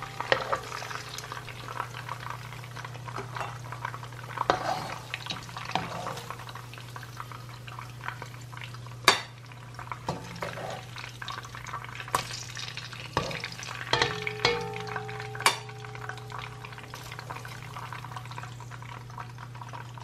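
Salmon pieces sizzling and crackling in hot oil in a nonstick frying pan, with sharp clicks and scrapes now and then as metal tongs and a knife knock against the pan. A steady low hum runs underneath.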